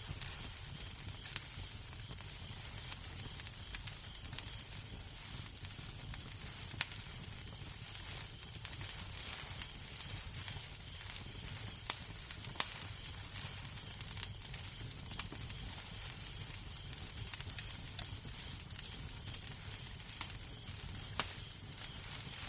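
Fireplace fire crackling: a steady hiss over a low rumble, with sharp pops every few seconds.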